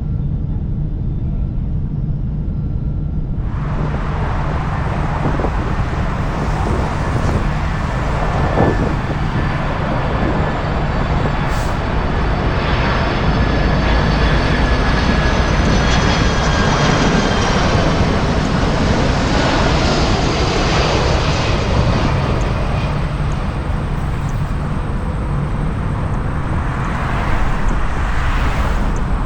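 Boeing 747-400 jet engines on approach: a steady low drone for the first few seconds, then about three seconds in a louder, fuller jet noise. In it, whining tones slowly fall in pitch as the airliner passes.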